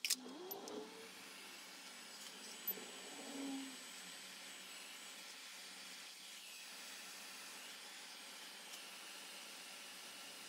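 Hot air gun switched on with a click, then blowing with a steady airy hiss. It is heating heat-shrink solder-sleeve connectors on wire joints, shrinking the tubing and melting the low-melt solder and glue inside.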